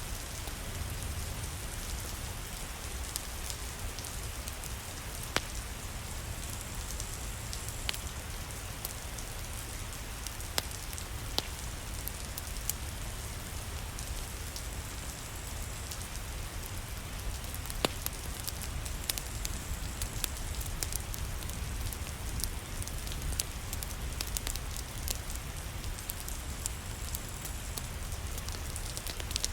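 Steady rain with a low rumble underneath, and sharp pops from a crackling wood fire every few seconds.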